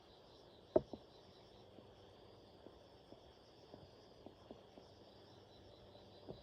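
Insects chirring steadily in the background, with scattered light knocks, the loudest about a second in.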